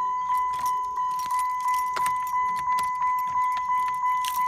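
Car's warning chime pinging steadily, about three high single-tone pings a second, with keys jangling and small plastic clicks as the key and its broken-out transponder part are handled.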